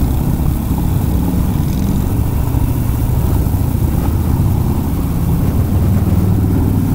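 Harley-Davidson Sportster Iron 883's air-cooled V-twin running at a steady cruising speed under way.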